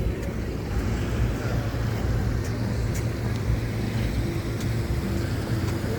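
Steady low rumble of an electric scooter rolling along pavement, with wind on the microphone. A faint steady tone comes in about halfway through, and there are a few light clicks.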